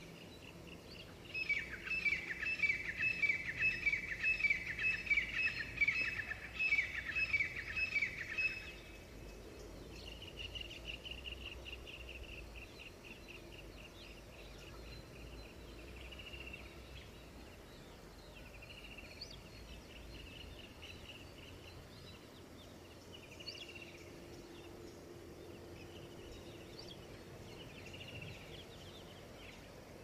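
Birds calling: a loud run of rapidly repeated, falling notes lasting about seven seconds, then a fast trill, then scattered short calls over a faint steady background.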